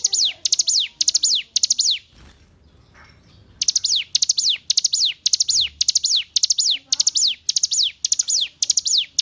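Ciblek gunung (a prinia) singing: a rapid, regular series of sharp, high notes, each sweeping steeply downward, about two and a half a second. The series breaks off about two seconds in and picks up again about a second and a half later.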